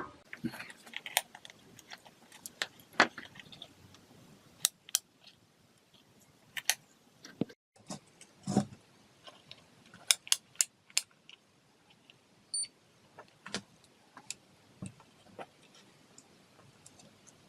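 Scattered sharp clicks and light metallic clinks at an irregular pace, with small hard parts or tools being handled.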